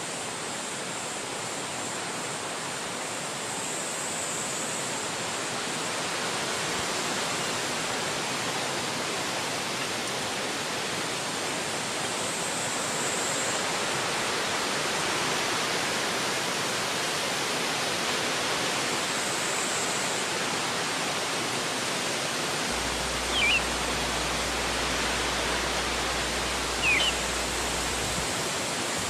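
Wind rushing steadily through forest trees, swelling slightly in strength. Near the end, two short high chirps cut through, a few seconds apart.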